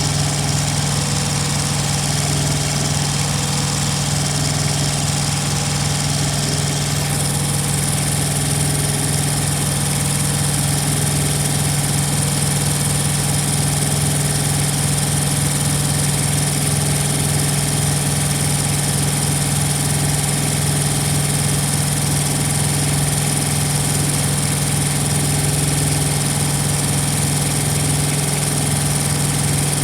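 Thermo King TriPac auxiliary power unit's small diesel engine idling steadily, with a strong even hum. A higher hiss joins about seven seconds in.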